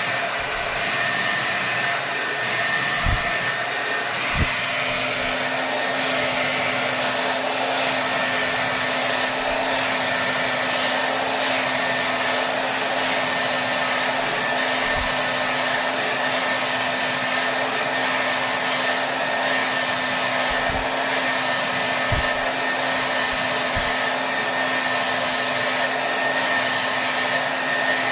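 Hair dryer running steadily at full power: a continuous rush of blown air with a steady motor hum. There are a few faint low bumps.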